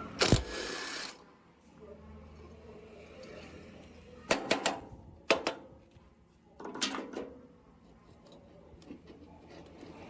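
Metal parts being handled at a workbench: a short burst of hissing noise in the first second, then scattered clicks and knocks in small clusters.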